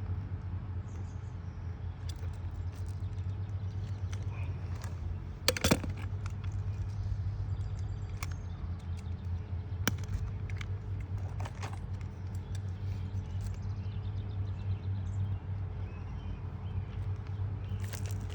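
A steady low engine hum with a few sharp clicks and taps over it, the loudest a double click about five and a half seconds in.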